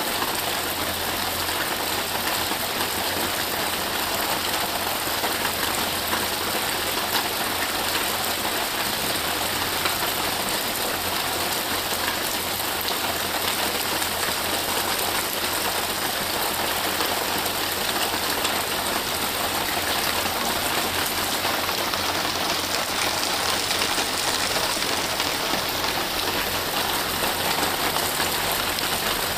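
Steady rain falling, a dense even hiss of many drops that does not let up.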